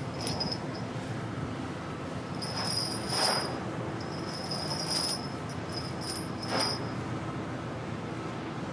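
Steady drone of ship machinery, with short spells of high metallic jingling and a few knocks about three, five and six and a half seconds in.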